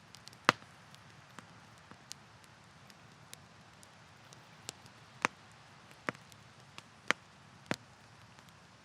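Campfire crackling: wood popping with sharp, irregular cracks, a few loud ones scattered through, over a faint steady hiss.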